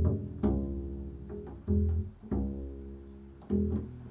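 Low plucked bass notes, about five in a slow, uneven line, each struck sharply and ringing out as it fades: an improvised solo bass passage.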